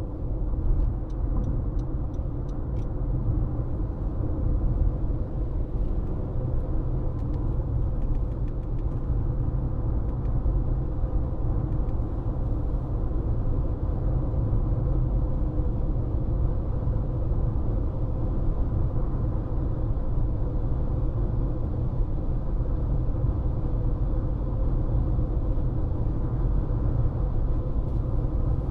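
Car driving at steady speed: a continuous low rumble of tyres on the road, with a faint steady hum. A few faint ticks sound in the first few seconds.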